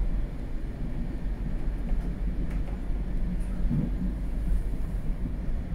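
Regional train running along the track, heard from inside the carriage: a steady low rumble of wheels and running gear, with a few faint clicks.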